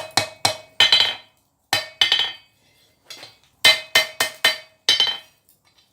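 Hand hammer striking hot steel on an anvil, about ten blows in short bursts with pauses between, each blow ringing briefly: forging and rounding out part of a pair of chain maker's tongs.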